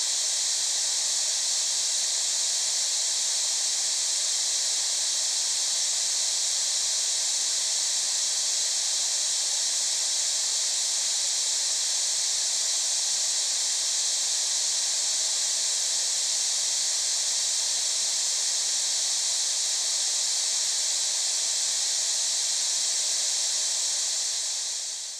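Steady, high-pitched white-noise hiss played back as an EVP aid, a bed of static in which listeners hope to catch spirit voices. It fades out at the end.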